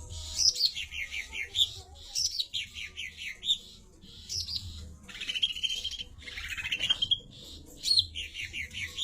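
A songbird singing in phrases of quick, falling whistled notes, repeated about every two seconds, with a buzzier trill in the middle.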